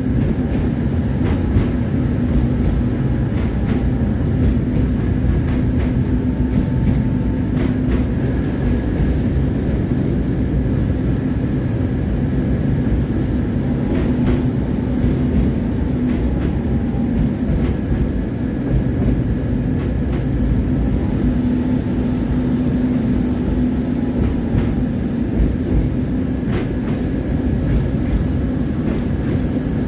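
Tram running along its rails: a continuous low rumble with a steady hum, and a few sharp clicks scattered through it.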